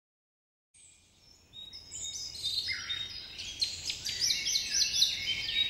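Songbirds chirping and singing: a dense stream of quick, high calls that starts about a second in, with a run of repeated falling notes near the end.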